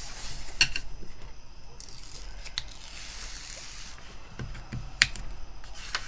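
Plastic cover sheet of a diamond painting canvas rustling as it is peeled back from the adhesive, with a few sharp clicks; the loudest comes about five seconds in.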